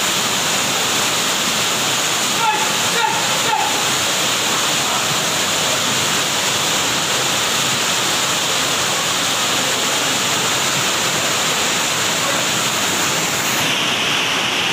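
Loud, steady rush of floodwater pouring and flowing. Faint voices come through briefly about two and a half to three and a half seconds in, and the hiss loses its top near the end.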